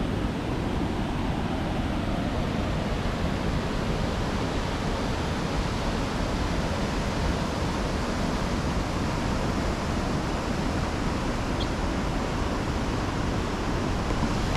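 Steady rush of a river running high and fast with rainy-season runoff.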